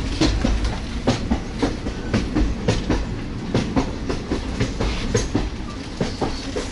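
Indian Railways sleeper coach running along the track, heard through an open door: the wheels give a steady low rumble with sharp, irregular clicks over the rail joints.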